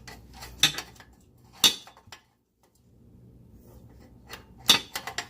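A replacement exhaust Y-pipe being worked into place under a car, giving sharp metallic clanks and clinks, with a quiet stretch in the middle. The pipe is knocking against a part of the car that stops it from fitting.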